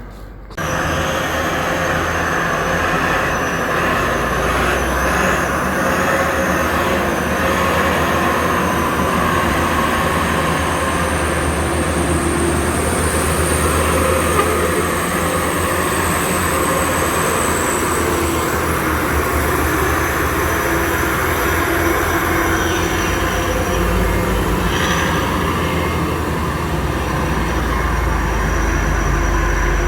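Heavy truck engine running hard close by, with steady high-pitched whines over a low rumble; it cuts in suddenly about half a second in.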